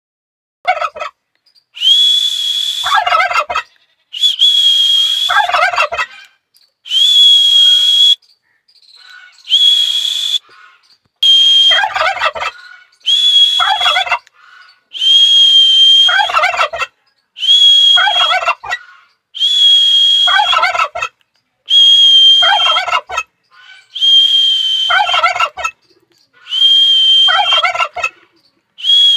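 Domestic turkey gobbling over and over, about every two seconds, each rapid rattling gobble coming right after a steady high whistle lasting about a second and a half, as turkeys do when they gobble back at a sharp sound.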